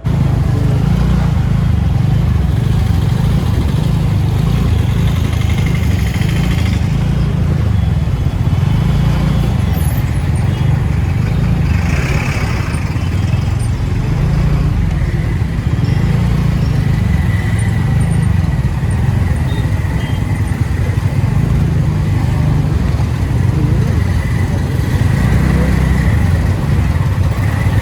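Steady heavy wind rumble on the microphone while riding a TVS Ntorq 125 Race XP scooter at speed, with road and traffic noise underneath. A faint steady whine joins in the second half.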